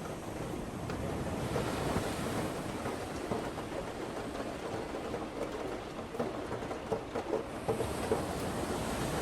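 Steady rain and wind of a tropical storm, with the crackle of a wood fire pit: many small pops and snaps through the downpour.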